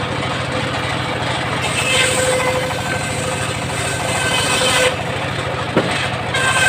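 Homemade engine-driven circular saw running steadily. A higher whine comes in about a second and a half in, drops away about five seconds in with a short knock after it, and returns near the end.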